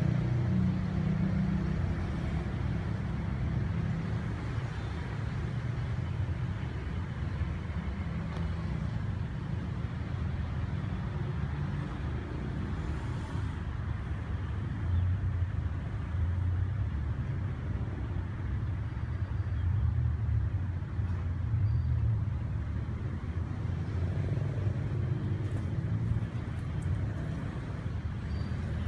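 Steady low rumble of background noise, with no distinct calls standing out.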